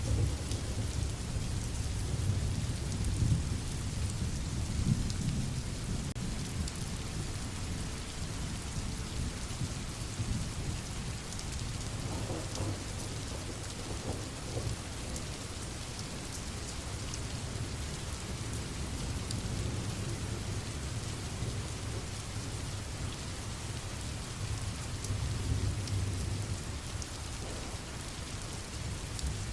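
Steady rain falling, with fine drops ticking, over a low rumble that swells in the first few seconds and again near the end.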